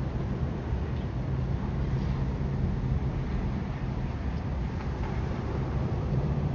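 Steady low outdoor rumble with a faint even hiss above it and no distinct events.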